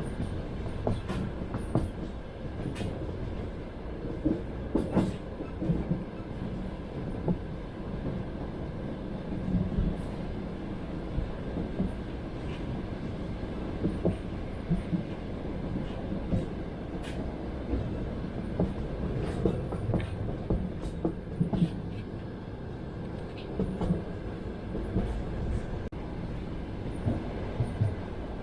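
Passenger train rolling along the track, heard from inside the carriage: a steady low rumble with the wheels clacking over rail joints in small clusters every few seconds.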